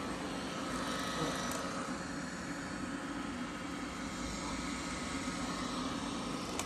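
Robotic vacuum running, a steady motor hum with a faint held whine.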